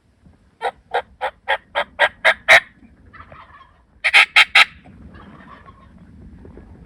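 Turkey yelping: a run of about eight evenly spaced notes growing steadily louder, then a shorter run of four loud notes about four seconds in, with softer bursts in between.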